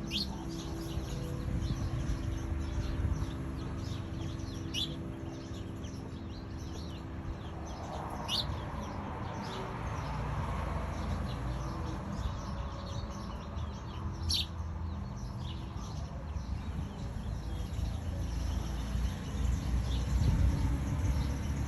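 Wild birds chirping, with four sharp high calls that sweep quickly down in pitch, spaced several seconds apart, over a steady low rumble.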